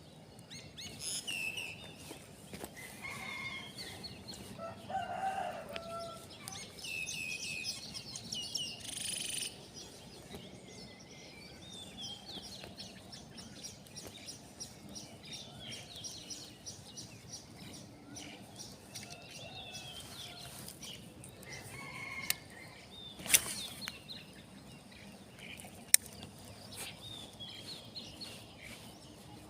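A rooster crowing and other birds calling, busiest in the first ten seconds and quieter after. Two sharp clicks come later on.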